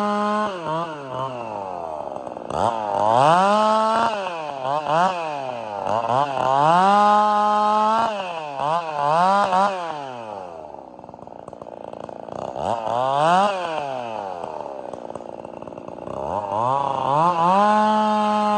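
Two-stroke chainsaw with a 32-inch bar bucking tamarack logs into firewood: the engine runs at full revs, then its pitch falls and rises again and again as the throttle comes on and off, eases to a lower, quieter speed in the middle, and returns to steady full revs near the end.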